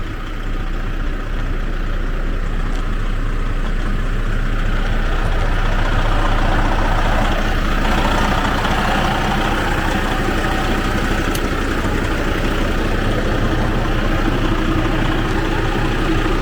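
Heavy diesel truck engine idling steadily, a little louder from about the middle.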